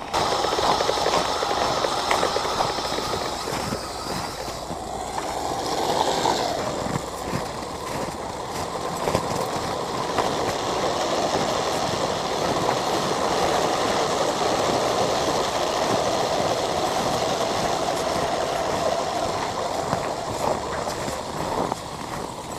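Kyosho Blizzard RC snowcat driving on snow: a steady whine of its electric motors and gears with track noise, swelling briefly about six seconds in.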